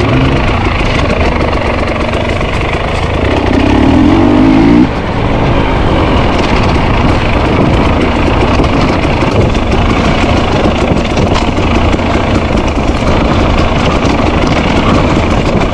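Enduro motorcycle engine running hard on a forest trail. About three seconds in it revs up in a rising whine, then drops off abruptly a second and a half later. It keeps running with uneven throttle after that.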